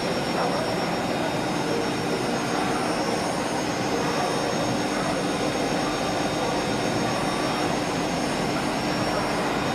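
Automatic CNC lock-and-hinge drilling machine for aluminium profiles running steadily, a continuous whirring hum with a few steady tones through it and no breaks.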